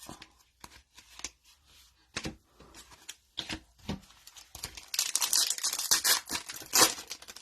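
Trading cards being handled: a scatter of light clicks and snaps as cards are flipped one by one, then about four and a half seconds in, a loud burst of crinkling and tearing as a foil card-pack wrapper is torn open.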